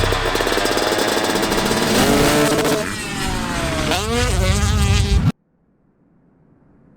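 Motocross bike engines at race revs, the pitch climbing and dropping as the riders work the throttle and shift, with one clear rise and fall about four seconds in. The sound cuts off suddenly about five seconds in, and only a faint low sound slowly rising is left.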